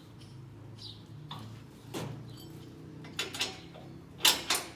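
A few sharp knocks or clacks, the loudest two close together near the end, with faint bird chirps in the background.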